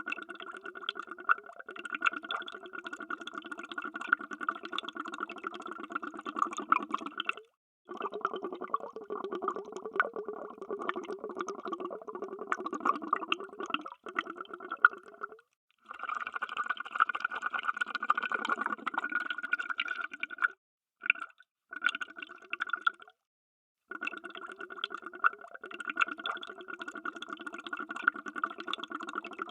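Underwater bubbles: a dense, steady stream of bubbling and popping that cuts out completely for a moment several times, about every few seconds in the middle.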